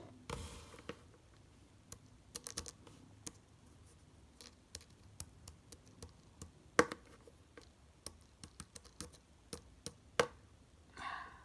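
Scattered light clicks and taps of small objects being handled on a hard surface, with a short rustle near the start and a sharper click about seven seconds in.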